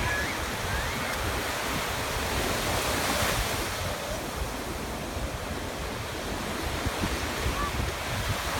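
Stormy surf on the Black Sea: a steady wash of breaking waves, with a louder wave crashing about three seconds in, and wind buffeting the microphone.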